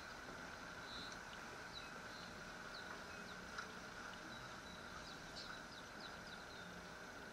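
Faint background ambience: a steady hiss and a high, even hum, with short high chirps of small birds scattered throughout.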